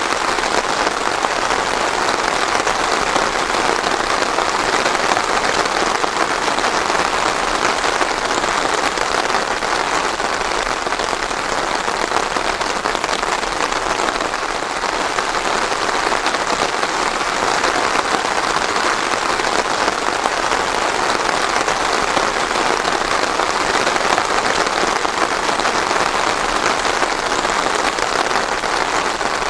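Steady rain without thunder falling on a surface, an even hiss of dense drops with no lulls or pauses.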